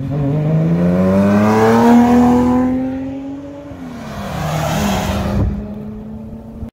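Subaru cars accelerating hard past the roadside, a blue Impreza and a white WRX STI with its turbocharged flat-four: the engine note climbs in pitch for about two seconds, then drops as a car goes by, and a second car follows with a steadier note.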